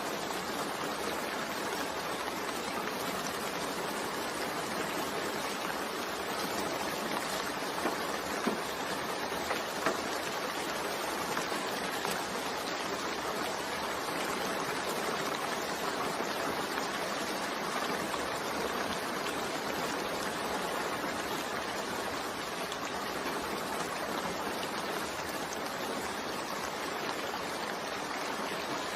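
Steady rain falling in an even hiss, with a few louder single drops about eight to ten seconds in.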